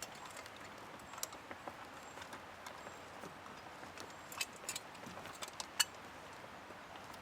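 Faint steady rush of a flowing river, with scattered small sharp clicks and ticks, most of them about four to six seconds in.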